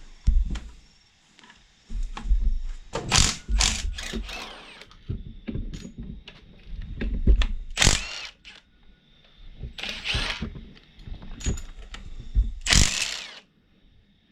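A power tool run in about six short bursts, spinning bolts out of an engine, with scattered metal clicks of tools between.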